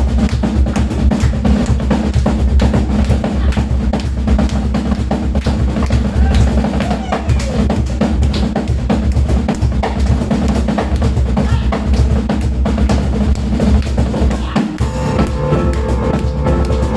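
Live drum kit played fast and dense, with bass drum, snare and rolls. About two seconds before the end, piano notes come in over the drums.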